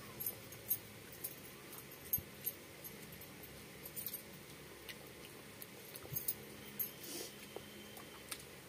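Close-up eating sounds of rice and curry eaten by hand: irregular wet smacks and clicks of chewing mouths, spaced a fraction of a second to a second apart.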